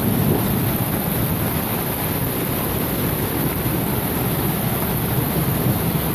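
Heavy rain with strong wind: a steady, dense noise of downpour and gusts, with wind buffeting the microphone.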